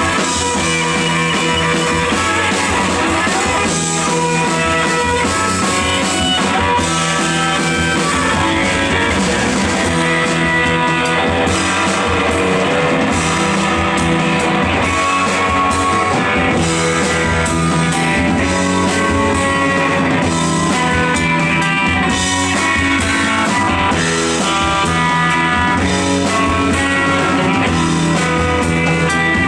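A live rock band plays an instrumental stretch: electric guitars and a baritone guitar over a steady drum-kit beat, with no singing.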